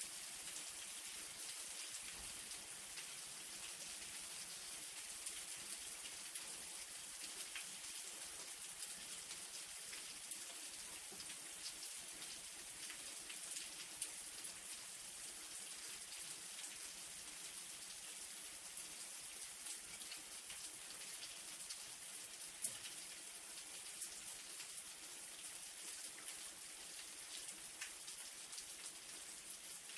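Light rain falling steadily: an even hiss with many small drop ticks, and a couple of louder single drops.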